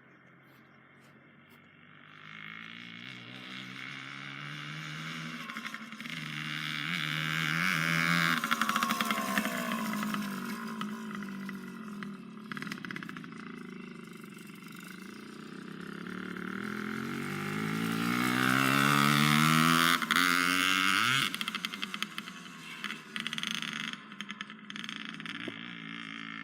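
Small 90 cc ATV engine revving as it rides past twice, its pitch rising and falling with each pass, loudest about 8 seconds in and again about 19 seconds in, then fading away.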